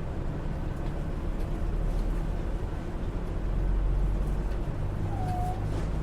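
Yui Rail straddle-beam monorail heard from inside the car while running between stations: a steady low rumble from the rubber-tyred train, swelling a little about four seconds in. A short faint tone comes near the end.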